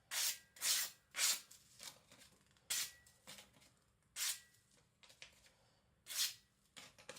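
A freshly sharpened Victorinox Chinese cleaver slicing through paper in a sharpness test: about six short, hissing cuts at uneven intervals.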